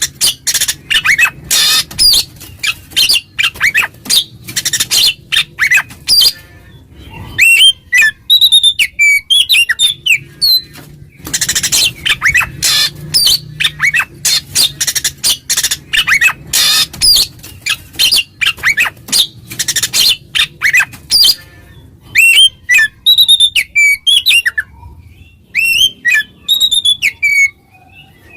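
Oriental magpie-robin (kacer) in loud, full 'ngeplong' song, the territorial song used to call out and provoke a rival. Rapid runs of harsh, scratchy chatter alternate with clear whistled phrases and sliding notes.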